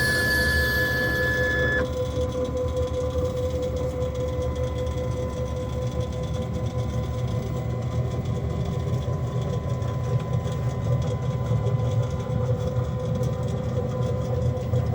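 Cue Demon CNC XL running a taper-profiling pass on a wooden pool cue shaft: a steady machine hum with a held tone. A higher whine cuts off about two seconds in.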